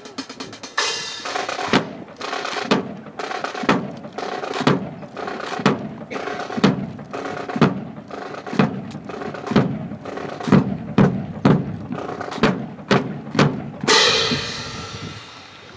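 Marching drums beating a cadence: sharp strikes about once a second that quicken to about two a second, then a sustained wash of noise about 14 seconds in that fades away.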